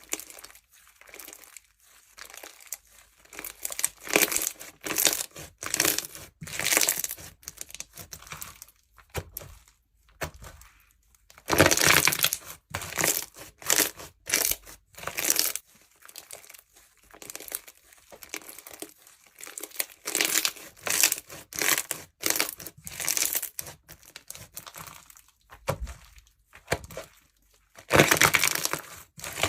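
Jewelry slime, slime filled with small beads and charms, being squeezed and pressed by hand: repeated short squelchy, crackly squishes, roughly one to two a second, with brief quiet gaps between them.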